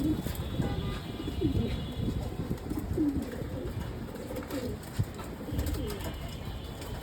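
Racing pigeons cooing, a run of low coos that rise and fall in pitch, one after another.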